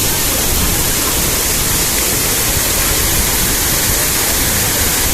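Waterfall: a steady, loud, even rush of falling water.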